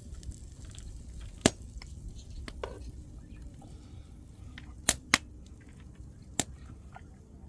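Dishes and utensils knocking and clinking in a small room: four sharp knocks, two of them close together about five seconds in, over a low, steady rumble.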